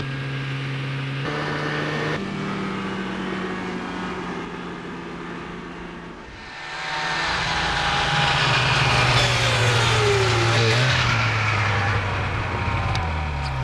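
Small two-stroke engines revving, with shifting engine notes. About halfway through the sound gets louder as a machine passes close, its whine falling in pitch.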